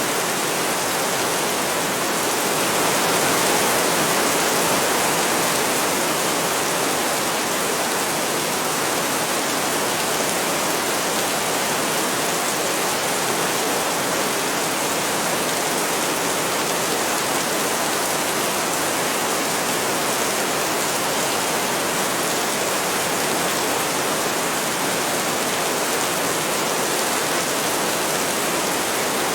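Heavy rain falling steadily, a dense even hiss that swells slightly about three seconds in.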